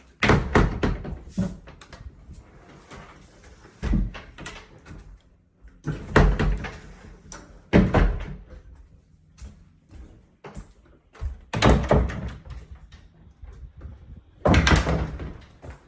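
Doors being opened and shut, about six bangs and rattles spread through the stretch, with quieter knocking and handling between them.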